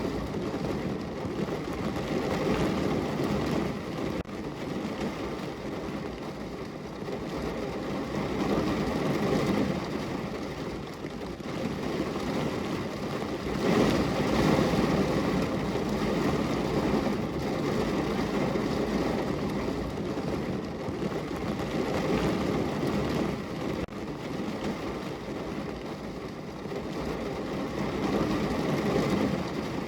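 Heavy rain drumming on a car's roof and body, heard from inside the car: a dense, steady patter that swells and eases every few seconds, loudest about halfway through.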